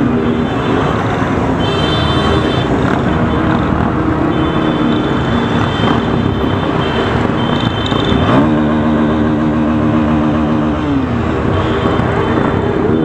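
Motorcycle engine running at road speed under heavy wind rush. The engine note holds steady for stretches, then shifts: it dips and climbs again about eight seconds in, and drops near the eleven-second mark.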